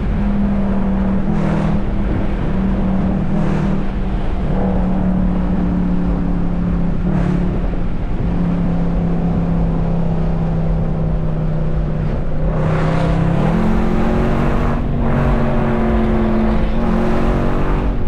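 SRT car's V8 engine running while being driven, its note holding steady and stepping up and down in pitch, then rising as it accelerates about twelve seconds in.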